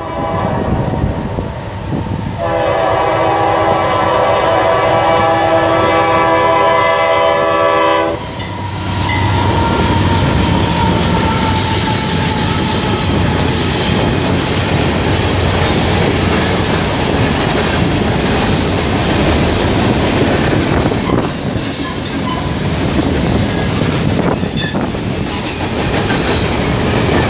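CSX freight train's locomotive horn sounding one long, steady chord-like blast as it approaches the grade crossing. Its two diesel locomotives then pass close by, followed by tank and hopper cars, with the wheels clattering over the rail joints.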